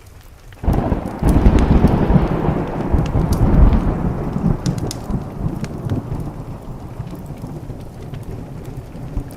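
A thunderclap breaks in suddenly about a second in, then rolls on as a deep rumble that slowly fades over several seconds. Rain and the sharp crackles of a wood fire run underneath.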